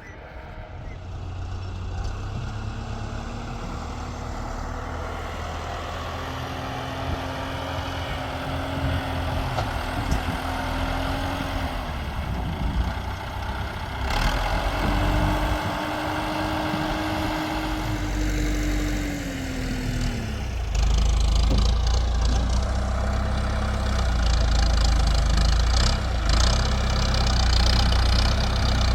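Tractor engine running while working, its speed rising and falling twice, then running heavier and louder with a deep rumble from about two-thirds of the way in.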